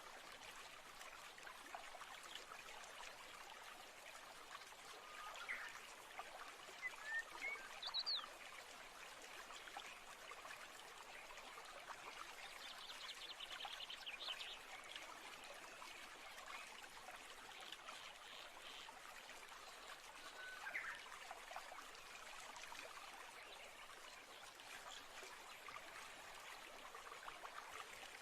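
Faint, steady trickle of a small stream, with a few short high chirps over it, the loudest about seven to eight seconds in.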